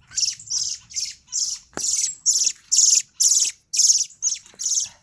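Fieldfare scolding with a run of harsh, rasping chack calls, about two a second: the alarm call of a parent bird mobbing an intruder near its fallen chick.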